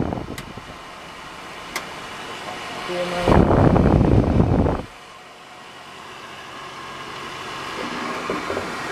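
Vintage Mimar hair dryer running on low heat, its fan blowing a steady rush of air. The rush is loud and rumbling in gusts, dropping off sharply at first. It comes back loud from about three seconds in to about five, then fades and slowly builds again, with a faint motor hum under it.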